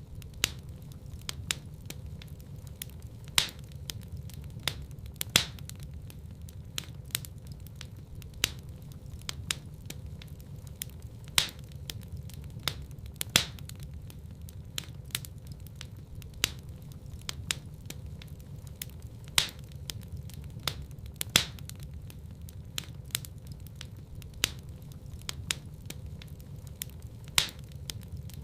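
Wood fire in a fireplace crackling: irregular sharp pops and snaps, a few louder than the rest, over a steady low rumble of burning.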